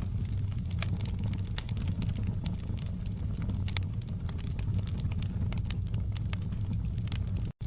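Fireplace crackling: a steady low rumble of burning with frequent sharp pops and crackles. The sound cuts out for an instant near the end.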